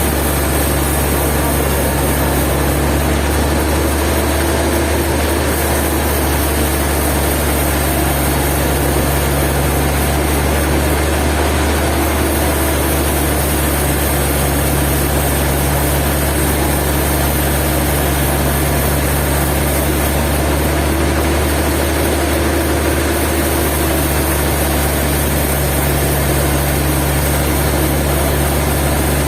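Sawmill machinery running with a steady, loud, low engine-like drone.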